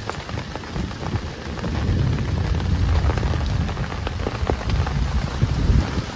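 Heavy rain falling, with scattered drops ticking sharply, over a deep low rumble that builds about two seconds in and eases off near the end.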